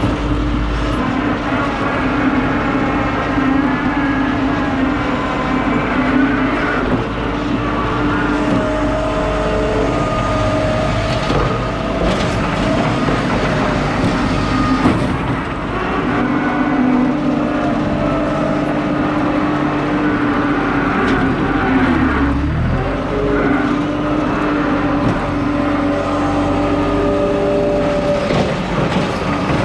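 Skid steer loader's engine running steadily at working speed, its pitch sagging briefly once about two-thirds of the way through.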